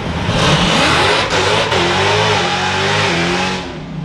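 Drag car's engine revving hard, its pitch rising and falling, under a loud rushing noise that eases off near the end.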